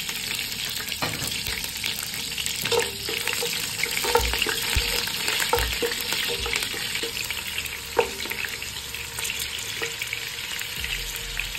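Slit green chillies sizzling steadily in hot oil in a nonstick pot, frying until they wilt. A spatula stirs them and knocks against the pot about five times.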